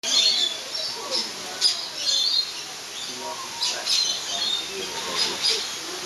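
Several birds chirping and calling at once, short high chirps repeating over and over.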